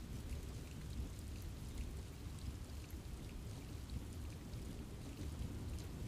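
Steady forest rain with many scattered, sharp drop ticks over a continuous low rumble.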